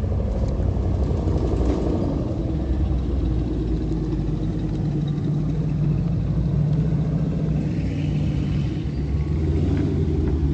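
A car engine running, a steady low rumble that grows a little fuller in the second half.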